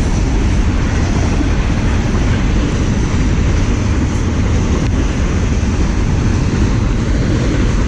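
Norfolk Southern intermodal container cars rolling past at close range: a loud, steady rumble of wheels on the rails.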